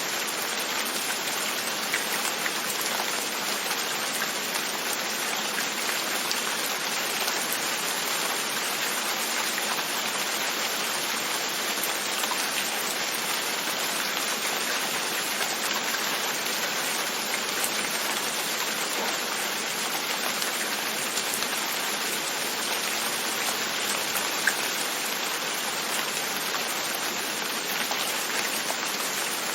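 Steady rain tapping on a window, an even hiss with a few louder single drops now and then.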